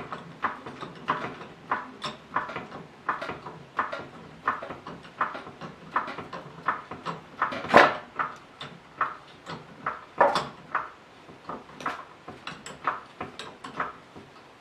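Repeated short mechanical clicks and knocks, about two a second, with a louder knock about eight seconds in and another about ten seconds in.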